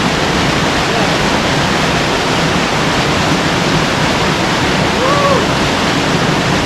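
Creek water rushing steadily, a constant loud hiss with no breaks. About five seconds in, a faint short tone rises and falls once.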